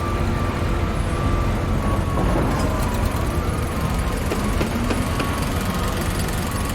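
Heavy trucks and construction machinery running, a steady low engine rumble with a faint thin whine over it. A few sharp clicks or knocks come about four to five seconds in.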